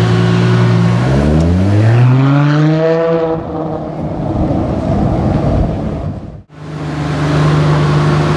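Ferrari F40's twin-turbo V8 running steadily, then accelerating about a second in with its pitch rising for a couple of seconds. The sound briefly drops out about two-thirds of the way through and then returns as a steady engine drone.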